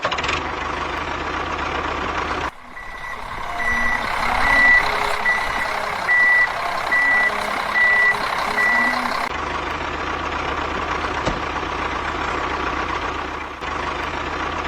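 A truck engine running steadily with a reversing alarm beeping about eight times in an even rhythm, starting a few seconds in and stopping a little past the middle. The sound changes abruptly at several edit cuts.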